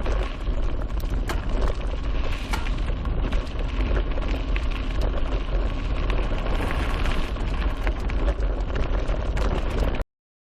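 Mountain bike ridden fast along a dirt trail, heard from an action camera: wind buffeting the microphone with a heavy rumble, tyres rolling on dirt and the bike clattering over roots and rocks. The sound cuts off suddenly about ten seconds in.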